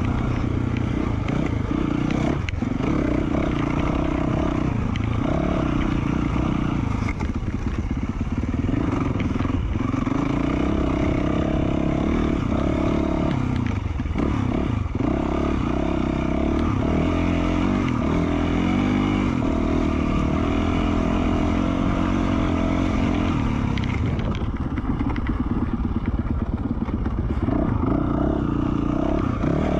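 2020 Yamaha YZ450F's single-cylinder four-stroke engine, breathing through an FMF Q4 slip-on exhaust, under way on trail with its pitch rising and falling as the throttle opens and closes, and a few sharp knocks along the way.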